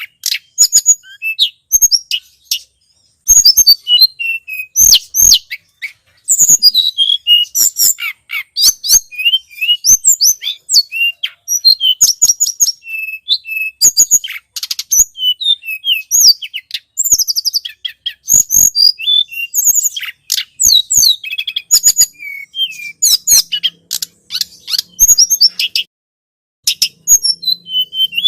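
Tledekan gunung, a small songbird, singing in rapid runs of high, sharp chirps and short trills broken by brief pauses, played as a bird-lure recording.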